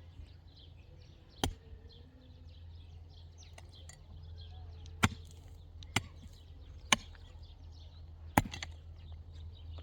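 Five sharp knocks, one about a second and a half in and the rest in the second half, spaced unevenly, over a steady low hum.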